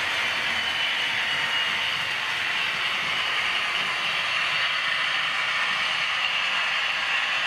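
Model V200 diesel locomotive running on a model railway, a steady hissing drone with a faint high whine and little bass, without a break.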